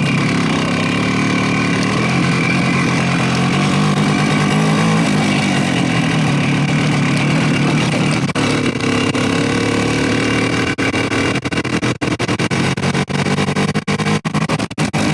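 Motorcycle engine running while riding, its pitch rising and falling with the throttle. In the last third the sound keeps cutting in and out rapidly.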